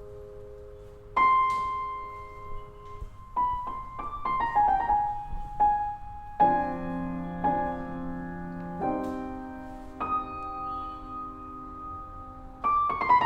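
Solo piano playing slowly: single struck notes and a short rising-and-falling phrase, then several chords, each left to ring and die away.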